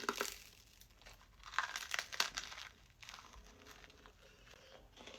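Short bursts of crinkling and tearing as the churro and cookie are handled and pulled apart, the loudest about two seconds in.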